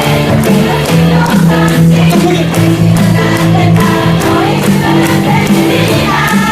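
Live musical-theatre song: singers performing with band accompaniment and a steady beat.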